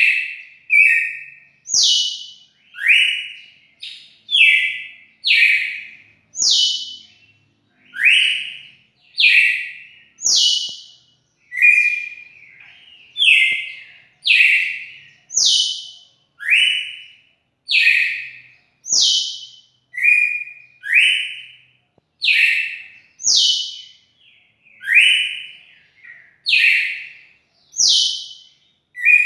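Red-cowled cardinal (galo-de-campina) singing a long run of short, clear whistled notes, a little more than one a second, alternating between higher and lower pitches.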